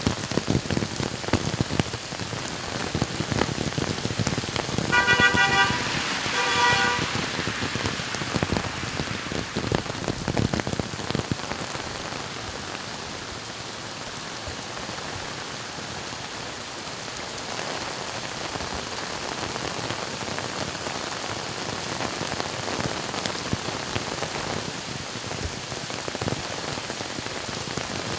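Heavy rain pouring onto a flooded street, a dense patter that is louder and more crackly for the first ten seconds or so, then steadier. A car horn sounds two short toots about five and six and a half seconds in.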